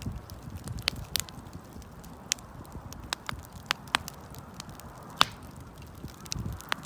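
Wood fire crackling, with irregular sharp pops and snaps and one louder pop about five seconds in, over a low steady rumble.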